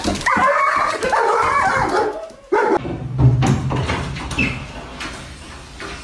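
A dog whining and yipping in high, wavering cries for about two seconds.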